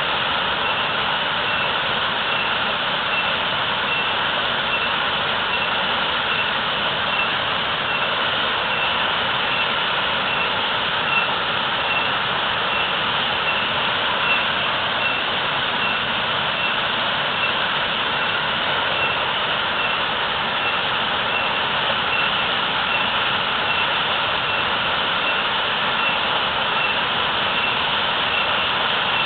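Waterfall with a heavy, fast flow of falling water: a steady, unbroken roar.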